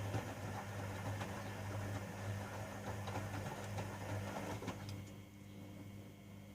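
Privileg Sensation 9245 washing machine running: a steady hum under a swishing, lightly clicking noise. About five seconds in the swishing dies down and only a quieter hum is left.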